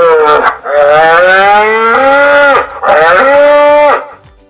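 Bull mooing in long, drawn-out calls: the end of one call, then a long call of about two seconds and a shorter one that stops about four seconds in.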